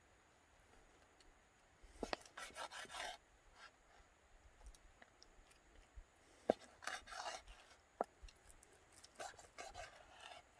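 Three short bouts of close-up scraping and rustling handling noise, each with a few sharp clicks.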